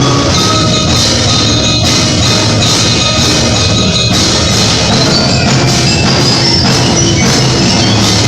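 School concert band playing a driving passage, with repeated percussion strokes over sustained band chords.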